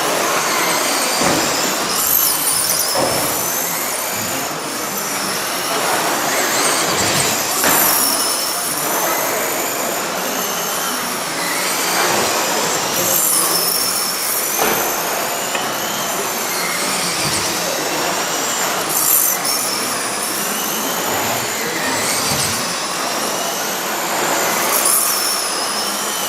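Several radio-controlled stock trucks racing, their motors whining in pitches that rise and fall over and over as they speed up and slow down around the track.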